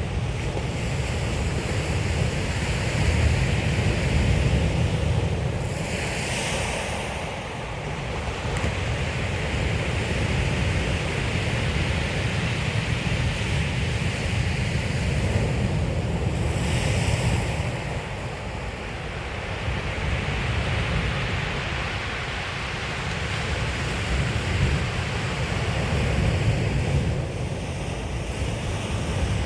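Waves breaking and washing back over a shingle beach, a steady surf hiss that swells twice, with wind rumbling on the microphone.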